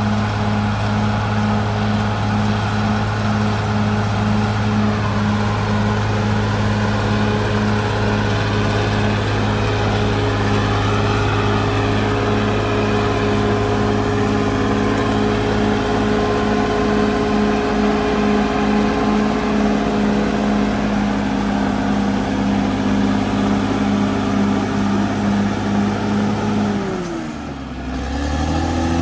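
Caterpillar D6R XL bulldozer's diesel engine running steadily under throttle, then dropping sharply in revs near the end and picking back up.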